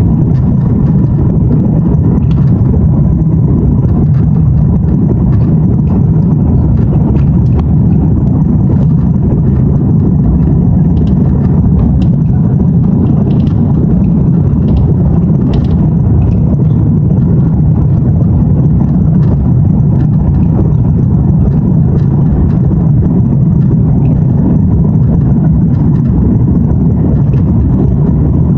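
Airbus A330-223's Pratt & Whitney turbofans heard from inside the cabin during takeoff: a loud, steady, deep rumble, with a few faint ticks and rattles above it.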